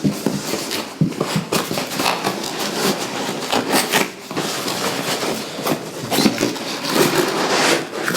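Packaging handled by hand during unboxing: a dense, irregular run of crackling, rustling and scraping from cardboard and plastic wrapping.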